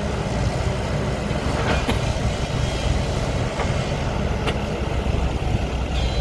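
The Cummins diesel engine of an XCMG 140 machine running steadily with a low drone, with a few short sharp knocks over it.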